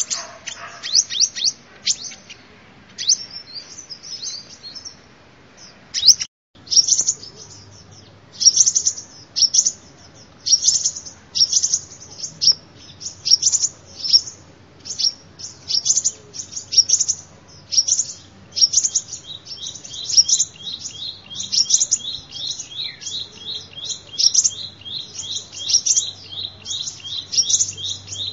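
Sunbird song played as a lure call: high, sharp chirps repeating a little over once a second, with a brief break about six seconds in. From about two-thirds of the way through, a faster, lower trill runs beneath the chirps.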